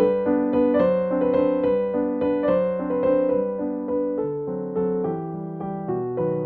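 Background piano music: a gentle melody over held chords, notes struck at an even, unhurried pace.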